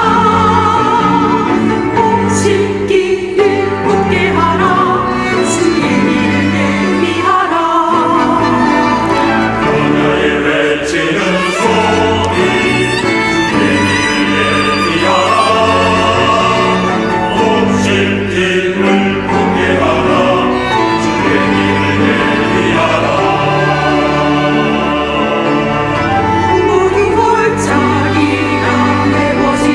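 Church choir anthem with instrumental accompaniment: held low bass notes under moving melodic lines from voices and strings.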